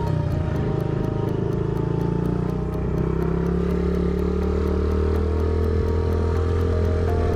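Small Honda CRF50 dirt bike's single-cylinder four-stroke engine running steadily, its pitch slowly rising and falling as the throttle changes.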